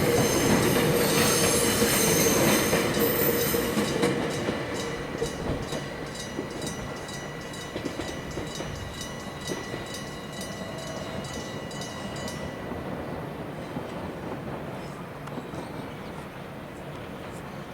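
Passenger train running past on the rails, loudest at first and then fading as it moves away. A regular metallic ringing of about two strikes a second runs alongside it and stops abruptly about twelve seconds in.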